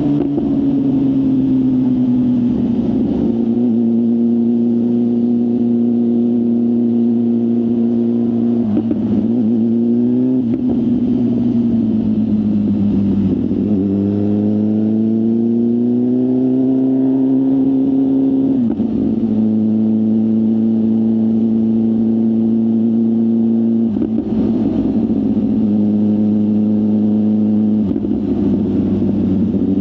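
BMW S1000RR's inline-four engine running through a full aftermarket exhaust while riding. The note mostly holds steady at cruising revs and rises and falls a few times. There are several brief breaks where the pitch steps, as at gear changes.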